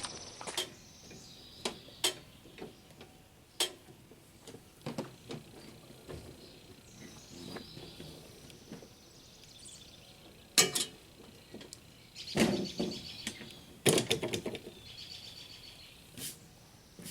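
Small birds chirping, with scattered knocks and clatter now and then.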